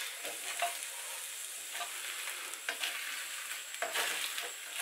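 Potato and egg omelette sizzling gently in oil in a frying pan over a low gas flame, a steady soft hiss. A few light clicks of a slotted spatula against the pan as the edges are worked.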